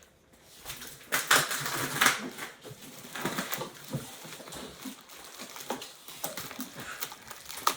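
Scissors cutting through packing tape on a cardboard shipping box, with irregular crackling, scraping and rustling of the tape and box.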